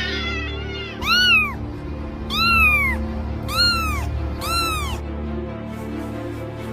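A cat meowing four times, each call short and arching up then down in pitch, over steady background music.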